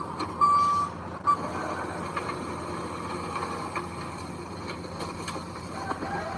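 A truck's reversing alarm gives one more beep and a short final one about a second in, then stops. A heavy machine's engine keeps running steadily, with a few scattered knocks.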